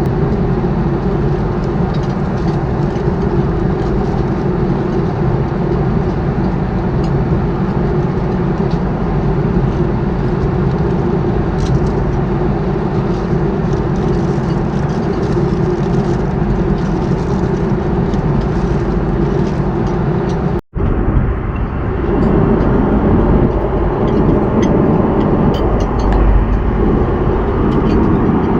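Steady loud roar of engine and air noise inside an Airbus A330-300 cabin. It drops out to silence for a moment about twenty seconds in, then carries on with a slightly changed tone.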